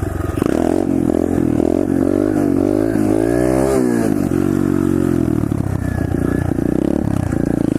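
SSR 125cc pit bike's single-cylinder four-stroke engine revving under throttle, its pitch climbing to a peak about four seconds in and falling back, then running steady.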